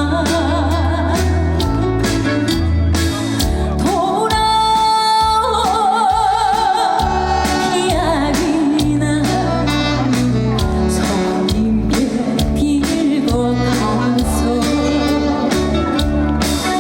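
A woman singing a Korean trot song with heavy vibrato over a loud amplified backing track with a steady bass beat. She holds one long straight note about four seconds in, then lets it waver into vibrato.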